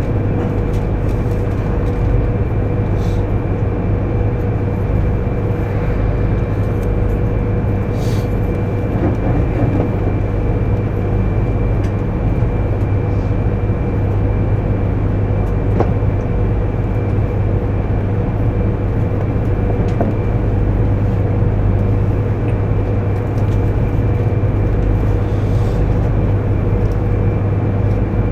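JR East 200 series Shinkansen train running at speed, heard inside the passenger cabin: a constant low rumble with a faint steady hum and a thin high whine over it, and a couple of light ticks.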